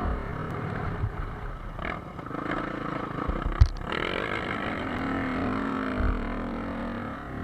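Motocross bike engine running and revving, its pitch rising and falling, with a few low thumps and a sharp knock about halfway through.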